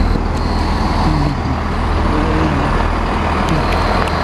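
GWR Class 165 diesel multiple unit running, a steady low engine rumble.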